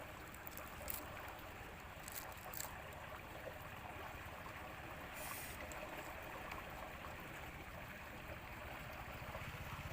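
Faint steady rushing background noise, with a few short soft clicks in the first three seconds and a brief hiss about five seconds in.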